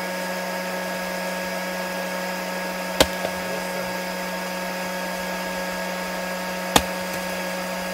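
12-volt electric air pump, powered from a car's cigarette-lighter socket, running with a steady hum as it inflates an inflatable boat through the hose; two sharp clicks sound about three seconds in and near the end.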